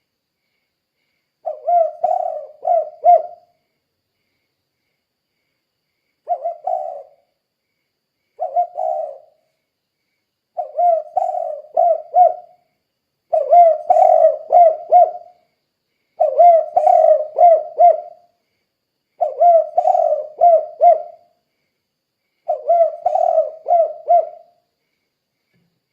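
Spotted dove (tekukur) cooing in the 'kuk 2' style: repeated phrases of three to five low coos, each phrase one to two seconds long, separated by pauses of one to three seconds.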